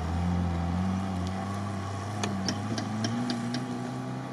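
A 4x4's engine running as it drives along a sandy off-road track, a steady hum whose pitch rises slowly and then fades. A few short clicks sound in the second half.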